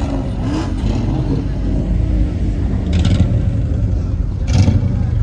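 Car engine and exhaust rumble, loud and steady, with crowd voices over it and two short louder bursts, about three seconds in and near the end.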